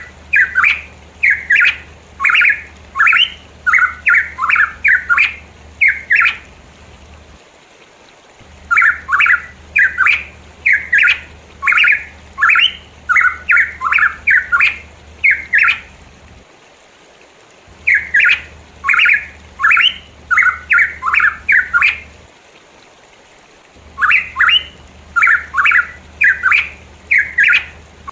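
A pitohui calling loudly in rapid runs of short, harsh notes: four bouts of about a dozen notes each, separated by short pauses.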